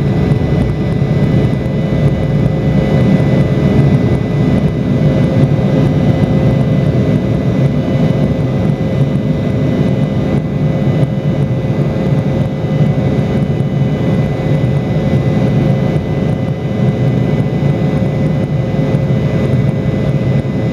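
Embraer E170's GE CF34 turbofan engines running at high power as the jet climbs out after takeoff: a loud, steady low rumble with a few steady whining tones over it.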